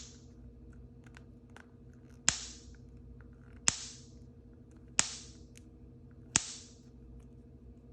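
Four sharp pops, evenly spaced about a second and a half apart, each trailing off in a short hiss.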